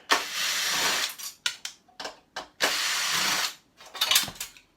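Power screwdriver or drill running in two bursts of about a second each to back out screws, with small clicks and knocks of the part being handled between them.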